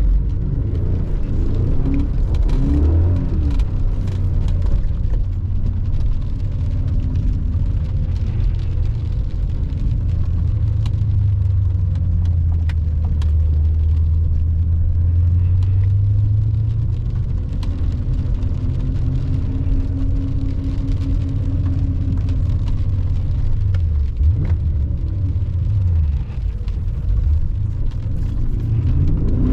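BMW E39 M5's V8 engine running under way, mostly steady, with revs rising and falling briefly a few seconds in, again about three-quarters through, and near the end.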